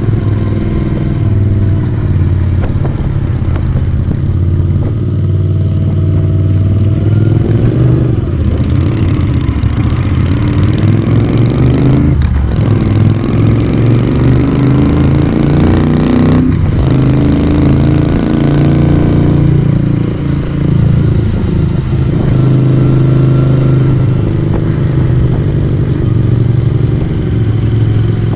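1982 Moto Guzzi V35's air-cooled transverse V-twin engine and exhaust under way, its note rising and falling with the throttle. About twelve and sixteen seconds in the sound breaks off briefly and then climbs again, as at upshifts.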